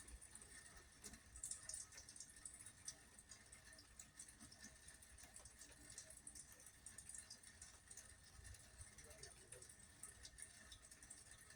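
Faint rain dripping: scattered small ticks of drops over a quiet hiss.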